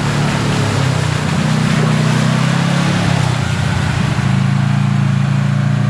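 Side-by-side UTV engine running under way, with a steady drone over tyre and wind noise. The engine note wavers a little in the first few seconds, then holds steady.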